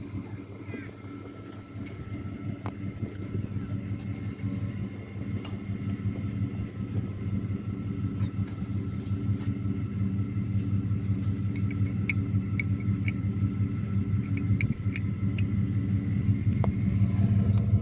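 Pickup truck engine idling steadily, growing gradually louder, with a few light clicks in the second half.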